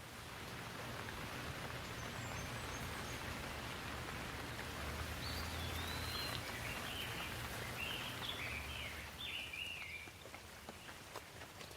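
Steady rain hissing, growing over the first couple of seconds and easing off about ten seconds in, with a low rumble underneath. In the middle a bird chirps a quick run of short notes sliding up and down, and a few sharp drop ticks come near the end.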